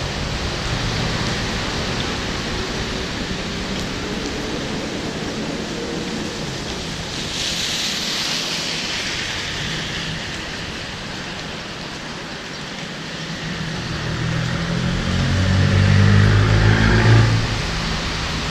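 Steady hiss of rain and wet road noise from a vehicle driving in the rain. A brief louder hiss comes about halfway, and an engine hum swells over the last few seconds.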